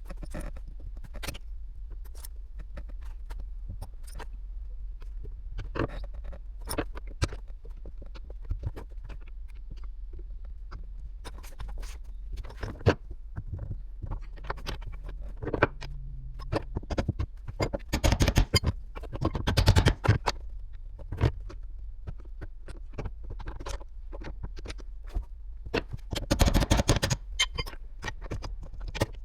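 Hand tools and metal parts clicking, scraping and clinking as a car's in-tank fuel pump is unbolted and taken out, with louder bursts of clatter about 18 and 26 seconds in.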